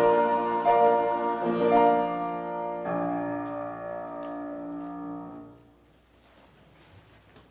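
The closing sustained chords of keyboard music, likely a piano, changing a few times and then dying away about five seconds in.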